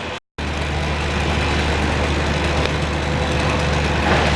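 A large engine running steadily at constant speed, an even low hum, cutting in just after a brief dropout at the start.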